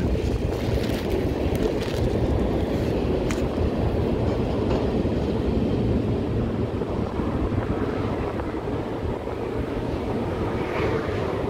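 Freight cars of a mixed manifest train, boxcars and covered hoppers, rolling past on the rails with a steady rumble of steel wheels. The last car clears late on.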